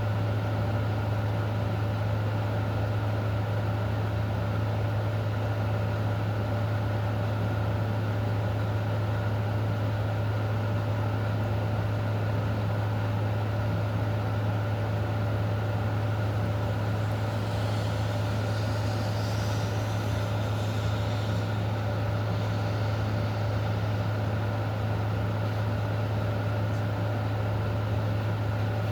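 Steady low mechanical hum with a constant hiss over it, joined by a fainter higher hiss for a few seconds past the middle.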